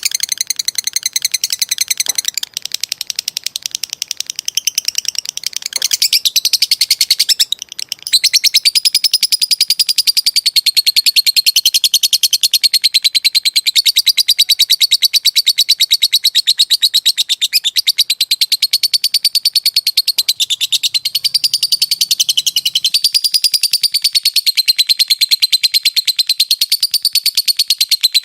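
Lovebird singing a long 'ngekek' (ngetik style): a rapid, unbroken chattering trill of high-pitched ticking notes, with a brief pause about eight seconds in.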